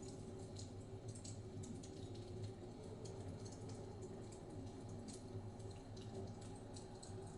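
Wood fire crackling in a fireplace: quick irregular small pops and snaps over a steady low rumble.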